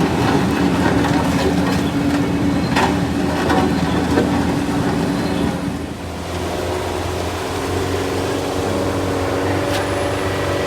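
Heavy vehicle engine running under load, its note changing about six seconds in.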